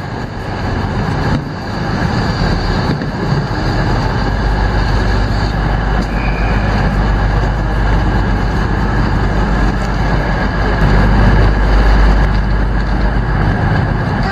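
Train running on the rails: a loud, steady rushing noise over a deep hum, swelling in at the start and fading away near the end.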